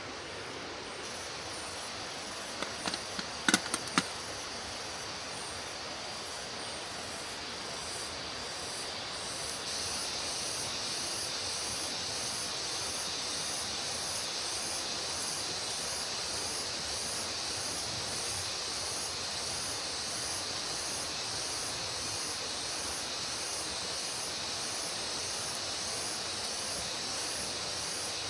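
Steady hissing outdoor ambience that grows stronger in the high range about ten seconds in, with a few sharp clicks or knocks about three to four seconds in.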